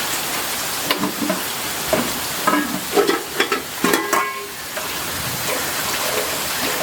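Steady rain hiss, with a run of sharp knocks and short clattering or ringing sounds between about one and four and a half seconds in.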